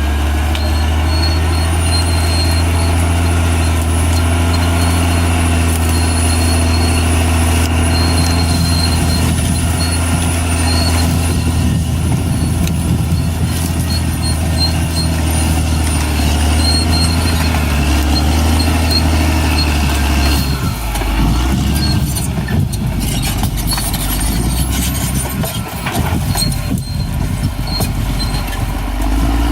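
Caterpillar D6R XL bulldozer's diesel engine running hard under load, with a thin high whine above it. About two-thirds of the way through, the engine note drops and turns uneven, mixed with knocks and clanks.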